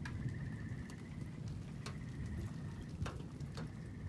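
Steady thunderstorm rain as a low, even wash, with a few sharp drip clicks as drops strike a nearby surface. A high, pulsing trill from a calling animal repeats several times behind it.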